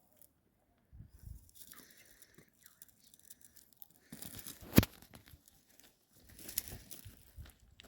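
Faint, intermittent crackling and rustling, with one sharp click a little past the middle.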